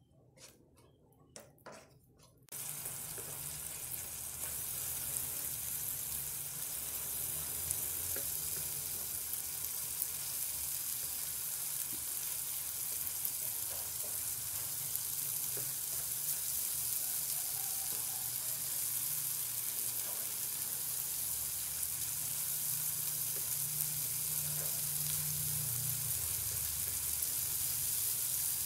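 A few faint clicks, then about two and a half seconds in a steady sizzle starts suddenly: red chili balado paste frying in oil in a non-stick pan as it is stirred with a plastic spatula.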